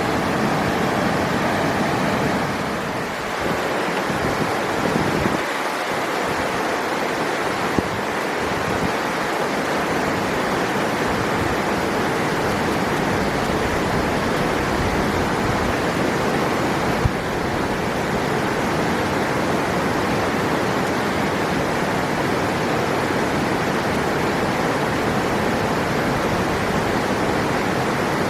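River water rushing, a steady, even flow.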